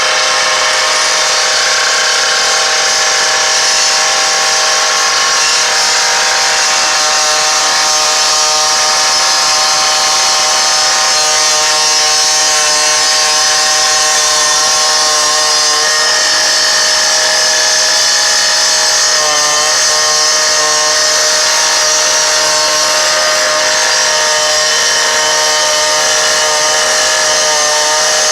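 Power saw running at full speed as it cuts into the body of a garbage truck. It makes a loud, steady high whine over a hissing grind, which wavers briefly about twenty seconds in.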